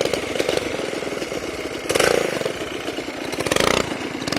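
Small engine idling with fast, even firing, swelling louder twice, about two seconds in and again near the end.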